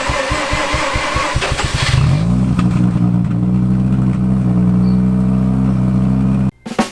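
Mazda RX8's rotary engine being cranked by its starter, catching about two seconds in and settling into a steady idle. It cuts off suddenly near the end.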